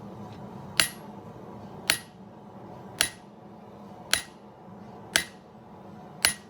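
Hand hammer striking a hot steel file being forged into a knife blade on an anvil: six single ringing blows, about one a second.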